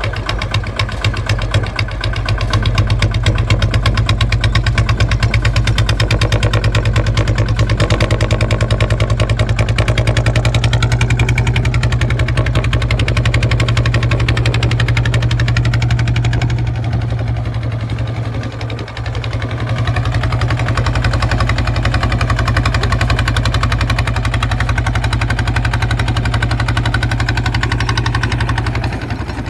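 Kubota ZT155 single-cylinder diesel engine running steadily with a rapid, even firing beat. It dips briefly about two-thirds of the way through, then picks up again.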